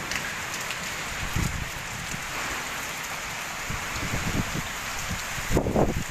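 Heavy rain pouring down steadily. In the second half, gusts of wind buffet the microphone in irregular low rumbles, the strongest near the end.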